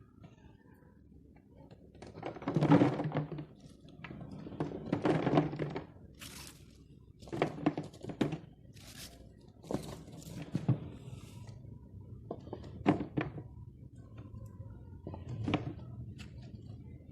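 Irregular dull thunks and knocks, with a few short crunching and scraping noises, from vegetables being handled for pickling. The loudest come about two and a half and five seconds in.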